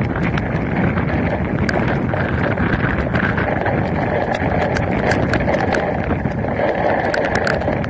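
Steady rush of rain and wind on an outdoor camera, with many scattered sharp taps of raindrops striking the camera housing.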